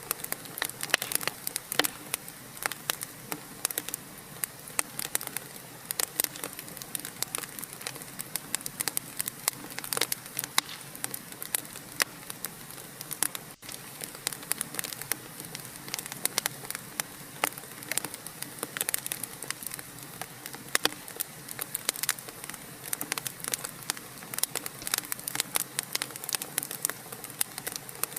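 Wood fire crackling in a fireplace: a steady hiss with dense, irregular sharp pops and snaps, and a momentary drop-out about halfway through.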